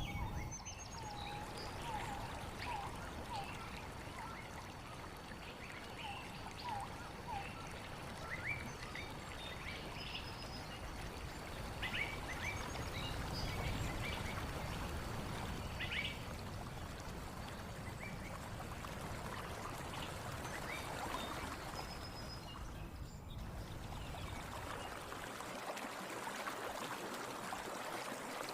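Stream water flowing steadily, with many short bird chirps scattered over it. About 23 seconds in the sound dips briefly and the water turns brighter and hissier.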